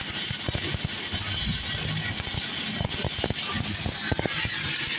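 Stick-welding arc of a 6010 electrode burning on a vertical-up open-root pass: a steady crackling hiss with irregular sharp pops.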